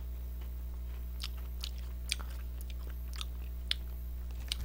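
Chewing a white-chocolate cookie-coated Pepero biscuit stick with the mouth closed, close to the microphone: small, separate crunches roughly every half second, over a steady low electrical hum.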